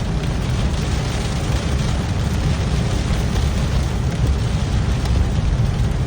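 Heavy rain pelting a moving car, over a steady low rumble of the car's road and engine noise.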